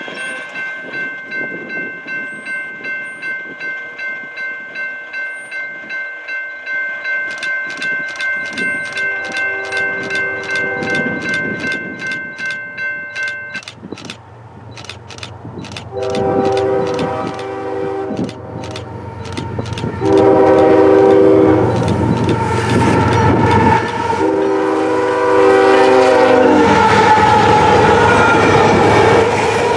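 A warning bell rings about twice a second, typical of a grade-crossing bell, and stops about 13 seconds in. The CSX freight locomotive's horn then sounds several long blasts as the train approaches, and the passing autorack cars fill the last few seconds with loud wheel rumble and clacking over the rail joints.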